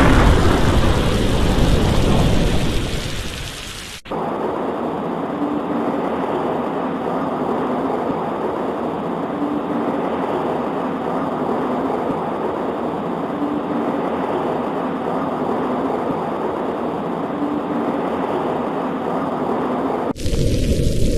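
A rolling thunderclap that fades away over the first few seconds, then an abrupt cut to a steady hiss of rain. Near the end it cuts back abruptly to a louder, fuller rain and storm sound.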